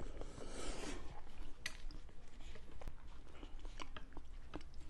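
Close-miked chewing of a mouthful of soft, fatty braised pork belly, heard as small, scattered mouth clicks.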